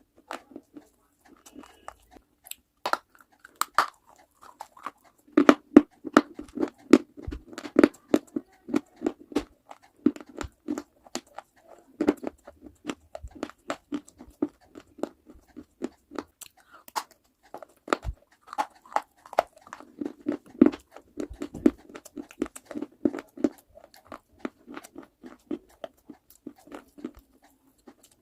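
A person biting and chewing brittle fragments close to the microphone: dense runs of sharp crunches and crackles, with quieter pauses between mouthfuls.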